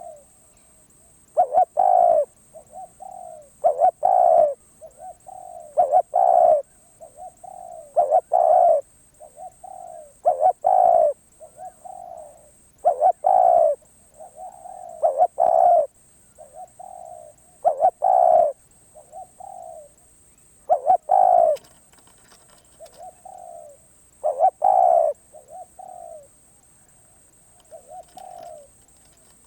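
Spotted dove cooing repeatedly. A loud coo comes about every two to two and a half seconds, each followed by a couple of softer coos, in a steady repeating phrase.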